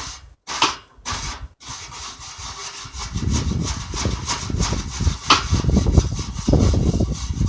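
Arc welding on a go-kart pedal: a few short stop-start bursts, then a steady rough, crackling weld bead from about three seconds in.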